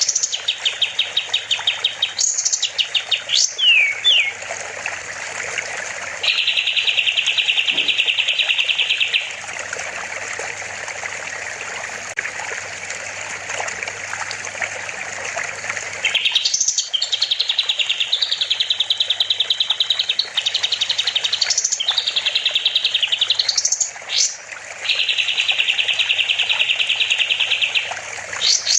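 Kapas tembak songbird singing loud, rapid chattering trills in repeated phrases of one to three seconds, with quick rising sweeps between them. A steady rush of water runs underneath and is heard alone for several seconds in the middle.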